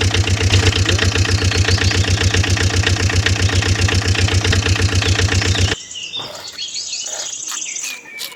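Small engine running with an even, fast thump, about ten beats a second, that cuts off suddenly about six seconds in. Quieter scattered sounds follow, with a brief high chirping.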